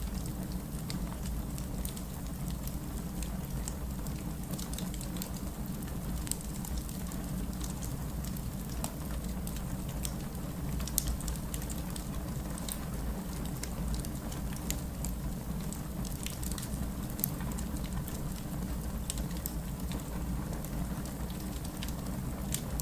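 Wood fire burning in a fireplace: a steady low rumble of flames with frequent small, irregular crackles and pops, a few sharper pops standing out.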